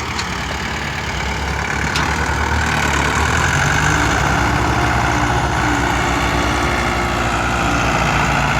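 Tractor engine running steadily, getting louder about two seconds in.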